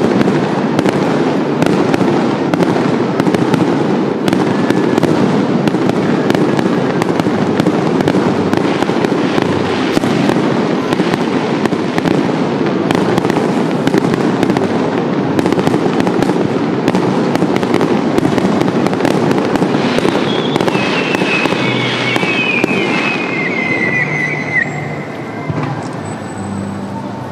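A continuous barrage of aerial fireworks: dense crackling and popping over a steady low rumble of bursts. About twenty seconds in, a few falling whistles sound over it.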